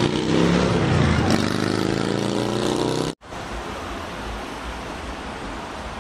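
A car engine accelerating, its pitch climbing steadily. About three seconds in it cuts off abruptly and a quieter, steady rushing noise follows.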